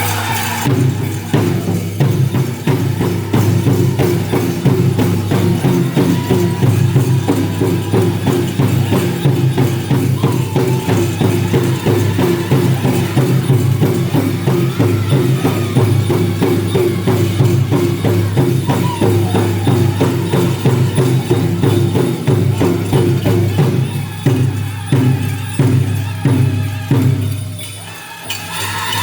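Powwow big drum beaten in a fast, steady rhythm by a drum group, with jingling bells or rattles over it and singers' voices faint in the mix. Near the end the beat breaks into a few spaced hard strokes, then briefly drops away.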